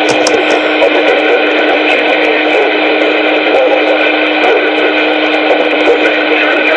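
CB radio channel carrying a loud, steady buzzing transmission with several held tones and no speech: a carrier keyed over the channel with a noise signal.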